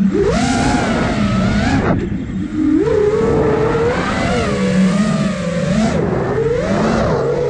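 iFlight Nazgul Evoque F5 five-inch FPV quadcopter's motors and propellers whining, the pitch rising and falling with the throttle. There are two rushes of noise, in the first two seconds and again around five to six seconds in.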